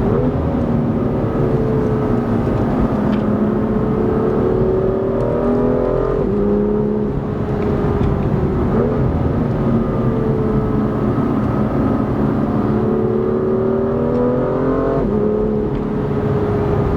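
BMW M2 LCI's turbocharged 3-litre inline-six with an M Performance exhaust, pulling under acceleration. The engine note climbs steadily and breaks sharply at gear changes about six, nine and fifteen seconds in.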